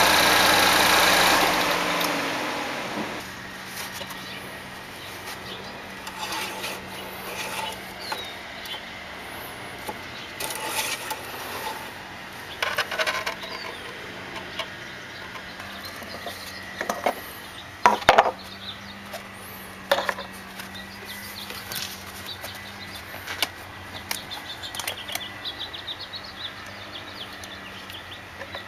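GMC Terrain engine running, then shut off, winding down over about a second and a half. After that, a steady low hum with scattered clicks and knocks, and birds chirping.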